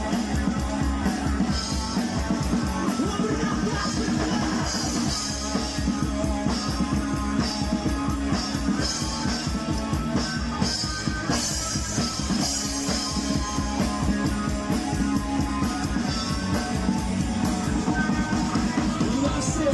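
Rock music with a drum kit beating steadily under guitars.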